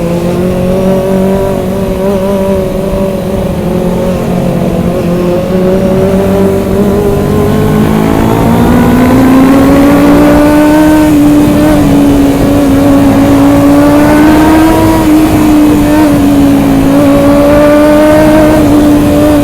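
Kawasaki ZX-25R's 250 cc inline-four running at high revs while riding, its pitch climbing about halfway through and then holding high with small rises and falls.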